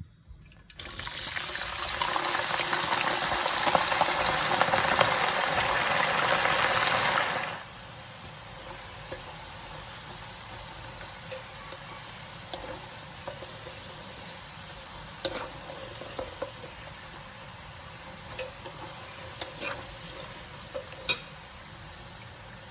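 Food sizzling in hot oil in a pan. It is loud for the first several seconds and then drops suddenly to a quieter steady sizzle, with a few sharp utensil clicks against the pan.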